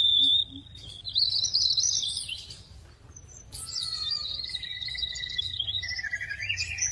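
A small bird giving high, thin whistled chirps. One wavering note rises and falls about a second in, and after a short pause near the middle it gives long warbling tones at two pitches together.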